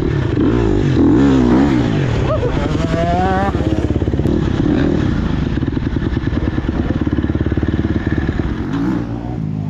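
Dirt bike engine revving up and down with quick rising pulls, then running at a steady pitch and fading away near the end.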